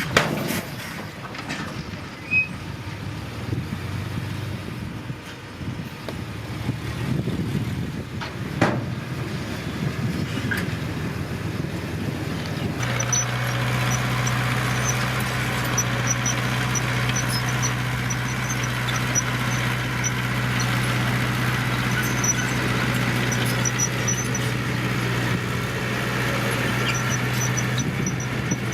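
Diesel engines of heavy earth-moving machinery working, uneven at first with a couple of sharp knocks. About halfway through, the sound changes abruptly to a steady engine drone with a faint high ticking above it.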